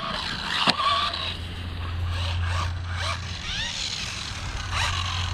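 Rlaarlo electric RC buggy being driven, its motor whine rising and falling repeatedly with the throttle, with a sharp knock under a second in and a few lighter ones.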